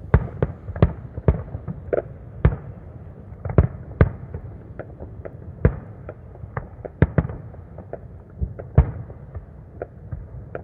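Fireworks going off across town, an irregular string of sharp bangs and pops, roughly two a second, some louder than others, over a low rumble.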